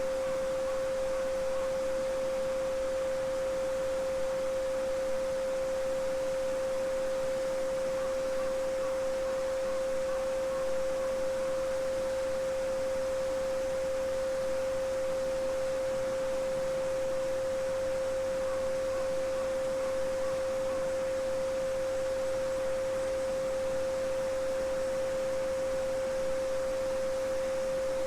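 A steady 528 Hz sine tone (the Solfeggio frequency) sounds without a break, over the even rush of a small babbling stream.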